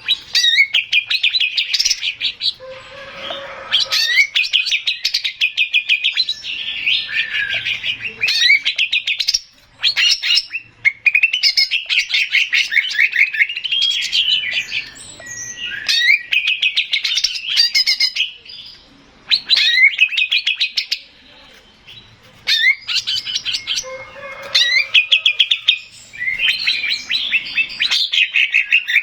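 Male cucak ijo (green leafbird) singing a loud, fast song: phrases of rapid repeated and sliding high notes, each a second or a few seconds long, broken by short pauses.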